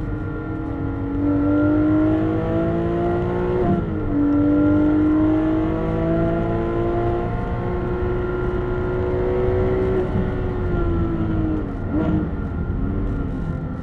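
Porsche 911 GT3 RS naturally aspirated flat-six engine heard from inside the cabin under hard acceleration on track. Its note climbs steadily and drops suddenly at an upshift about four seconds in, then climbs again through the next gear. About ten seconds in it falls away as the throttle comes off, with a brief wobble in pitch near the end.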